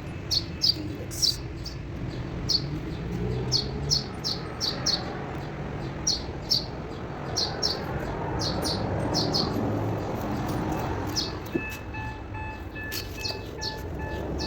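A small bird chirping over and over in short, sharp high calls, several a second at times, over a steady low rumble. A faint pulsing beep joins in the last few seconds.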